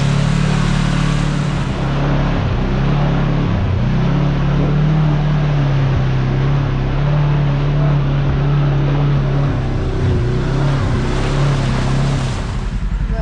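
Kawasaki KRX side-by-side's engine running steadily under way, with a steady low hum and a wide noisy rush. Near the end the rush falls away and the engine settles into a slower, regular pulsing.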